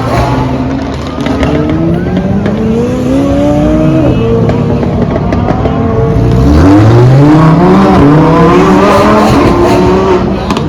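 High-performance car engine accelerating hard. Its pitch climbs for a few seconds, drops sharply about four seconds in, then climbs again and stays loud.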